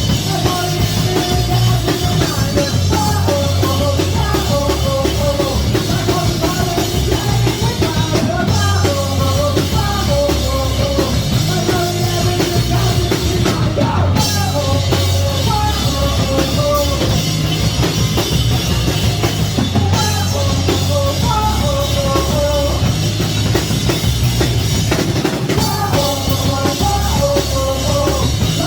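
Live rock band playing loud, with drums, a driving beat and a sung melody.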